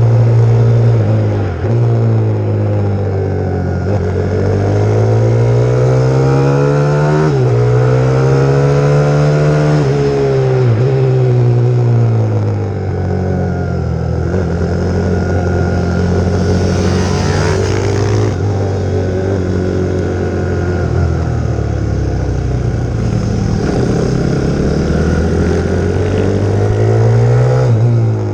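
Pit bike's 150cc single-cylinder four-stroke engine being ridden hard, its pitch climbing and then dropping sharply again and again as it is revved and backed off.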